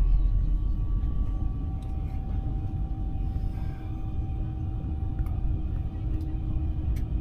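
Cabin noise of a moving high-speed train: a steady low rumble with a faint steady whine over it.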